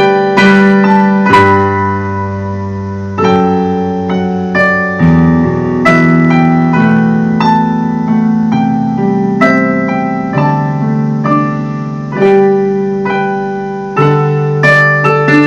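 Piano tones from a keyboard: a slow piece of chords and melody notes, each struck and left to ring, over a bass note that changes every second or two.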